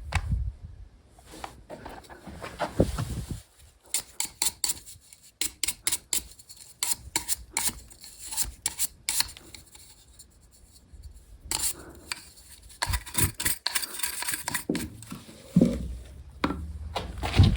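Hand tools and metal parts clinking and clicking in quick, irregular taps, with a stretch of scraping about thirteen seconds in.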